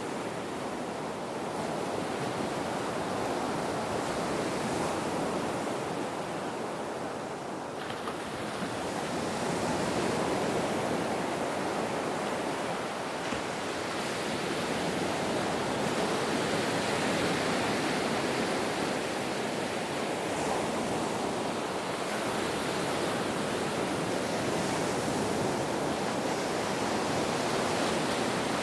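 Ocean surf: a continuous rush of breaking waves that swells and eases slowly, growing a little louder about a third of the way in.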